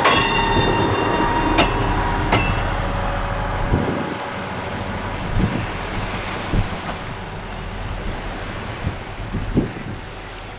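ScotRail Class 158 diesel multiple unit passing close by, with a steady whine and its wheels clicking sharply over rail joints. After about four seconds this gives way to wind buffeting the microphone with scattered thumps.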